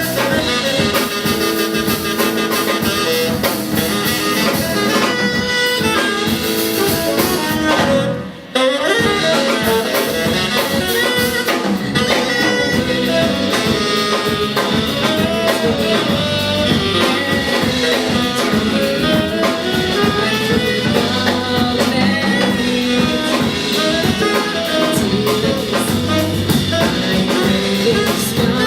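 Live jazz band playing an instrumental passage: tenor saxophone over piano, bass and drum kit. The music drops out for a moment about eight seconds in, then comes straight back.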